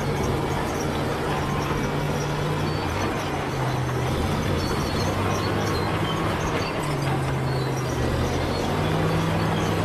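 Bulldozer's diesel engine running steadily under working load, its pitch stepping slightly up and down, over a continuous mechanical noise.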